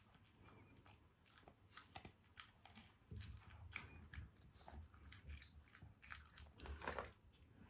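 A Shiba Inu eating its meal of meat and rice: faint chewing and crunching in a quick run of small clicks, busier and a little louder in the second half.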